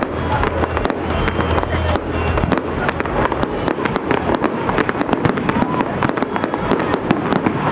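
Fireworks display: a dense, unbroken run of sharp bangs and crackles, many a second, from shells bursting overhead and fountains and comets firing at the same time.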